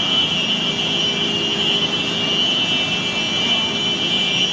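Tsunami floodwater rushing steadily through the town, with a chorus of high-pitched electronic alarms sounding continuously over it.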